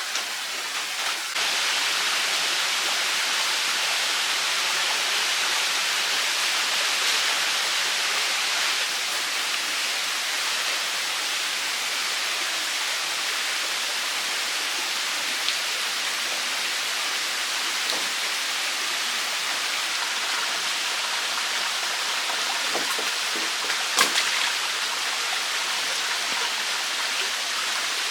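Steady rush of running water from a stream, growing louder about a second in. A single sharp click comes near the end.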